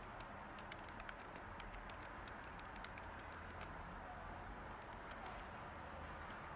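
Light typing on a computer keyboard: irregular soft key clicks, several a second at times, over a steady background of white noise.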